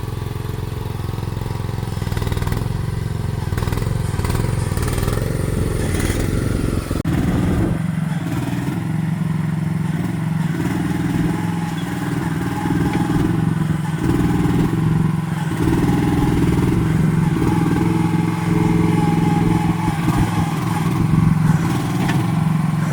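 One-ton mini excavator's engine running as the machine is driven along, with a change in its running about seven seconds in to a steadier hum that swells and eases.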